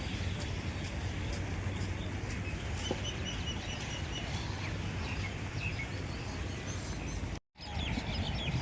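Small birds chirping, with a quick run of repeated high notes about three seconds in, over a steady low outdoor rumble. The sound drops out briefly near the end.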